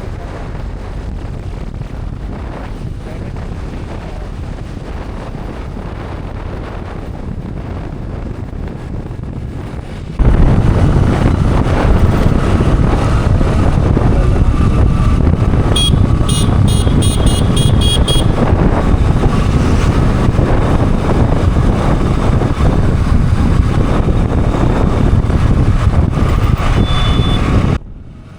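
Steady road and wind noise from a moving motorcycle ride, jumping sharply louder about ten seconds in. A quick run of high beeps, about five a second, comes partway through.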